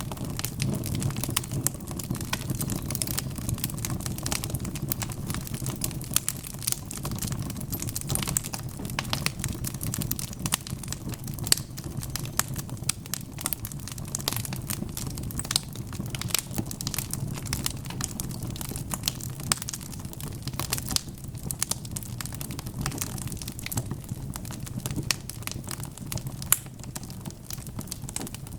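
Wood fire crackling and popping in a fireplace: a steady low rumble of burning with frequent sharp, irregular pops and snaps.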